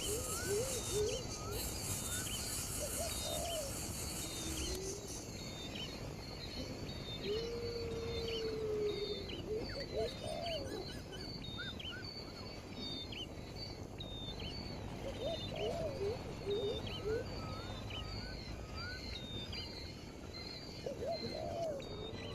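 Several wild birds calling together: rapid short high chirps repeat throughout, with lower whistled calls coming and going, one held for about a second and a half near the middle.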